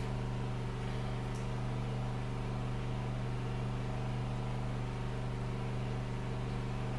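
A steady low hum, even in level throughout, with a constant pitch.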